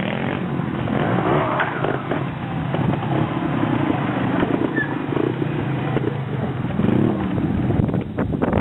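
Trials motorcycle engine running, its revs rising and falling as the throttle is worked.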